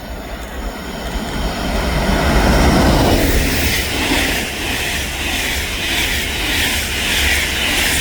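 A train passing the stop. Its rumble grows louder over the first three seconds, then settles into a steady rushing with a regular repeating beat of the wheels.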